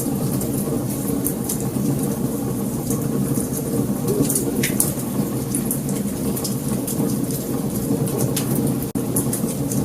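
Wood fire burning: a steady low rumble of flames with frequent sharp crackles and pops. The sound cuts out for an instant near the end.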